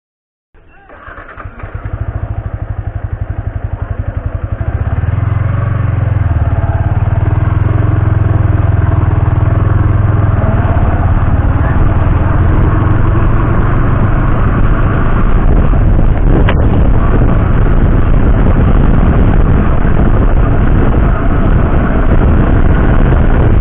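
Motorcycle engine running close to the microphone: it comes in about half a second in with distinct fast firing pulses, grows louder over the next few seconds and then runs steady and loud.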